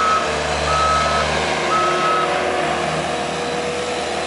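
Heavy-equipment backup alarm beeping over a running diesel engine: the tail of one beep, then two more about a second apart, after which the alarm stops and the engine runs on.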